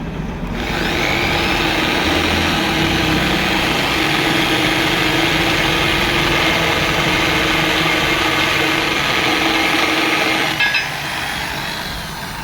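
Drill machine spinning a makeshift grinder built from grinder-disc pieces clamped on a bolt, grinding inside a bore so that a bearing will fit. A steady, loud grinding whir starts about half a second in, then drops away near the end with a couple of clicks.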